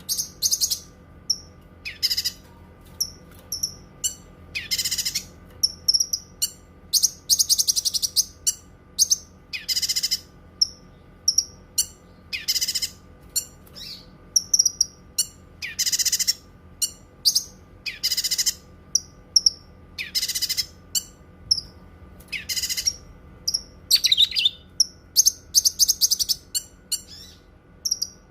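Cucak kinoi singing: short, bright, high phrases repeated every one to two seconds, with quick thin chips between them.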